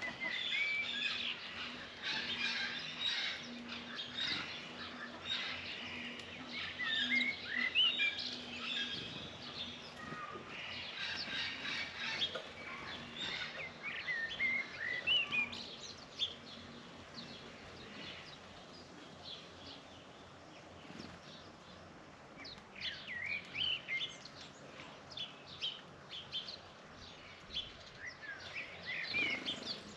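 Small birds chirping and tweeting, many short calls overlapping, busiest in the first half, thinning out in the middle and picking up again near the end.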